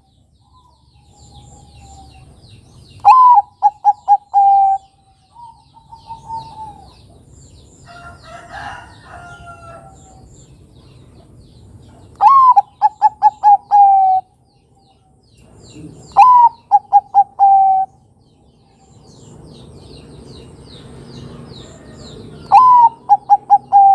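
Zebra dove (perkutut, Bangkok type) singing its cooing song four times. Each phrase is a longer opening note followed by a quick run of five or six short coos. Fainter chirps from other birds are heard between the phrases.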